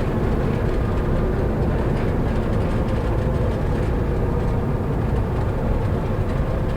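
Cessna 172 on its landing rollout, engine running at low power while the wheels rumble steadily over the runway as the plane is braked to a slow roll.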